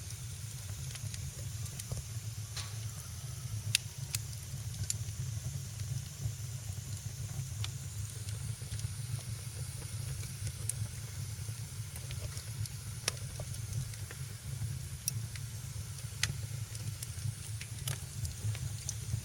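Wood fire in a fireplace crackling: irregular sharp pops, the loudest about four and thirteen seconds in, over a steady low rumble and hiss.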